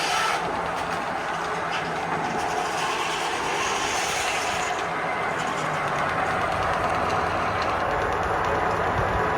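Antique machinery running with a steady mechanical clatter and hiss.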